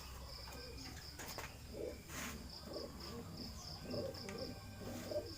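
Racing pigeons cooing in their loft, a low warbling coo repeated from about two seconds in, over a steady high pulsing chirp of crickets.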